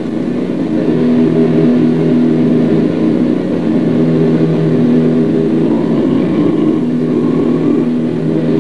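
Loud, distorted drone of harsh noise music: a held cluster of low tones over a gritty rumble, with a faint higher tone creeping in near the end.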